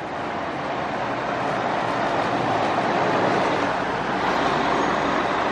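A heavy vehicle passing close by, a dense, steady rush of engine and rolling noise that builds over the first couple of seconds.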